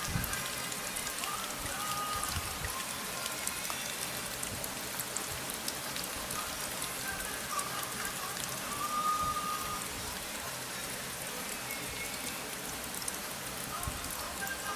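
Steady rain falling on a surface, with many small drop ticks scattered through it.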